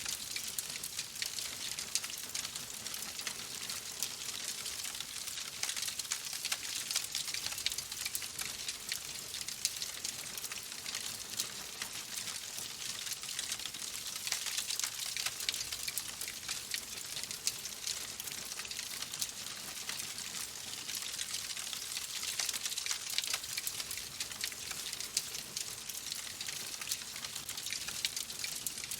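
Wood fire crackling in a fireplace: a steady hiss full of small, rapid pops and snaps.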